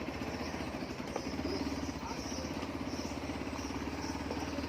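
Motorcycle engine idling steadily with an even pulse.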